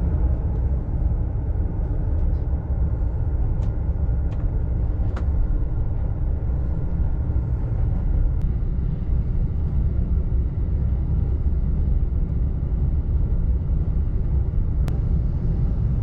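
Steady low rumble of a JR East commuter train running, heard inside a double-decker Green Car cabin, with a few faint ticks.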